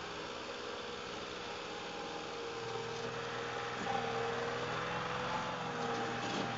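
Tractor engine running steadily at low speed, with a deeper hum joining about two and a half seconds in.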